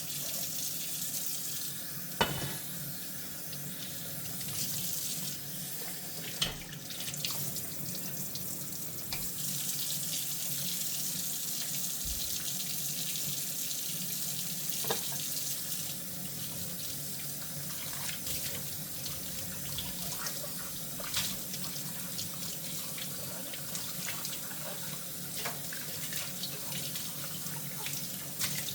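Tap water running steadily into a kitchen sink during hand dishwashing, with scattered sharp clinks of dishes knocking together, the loudest about two seconds in and again about six seconds in.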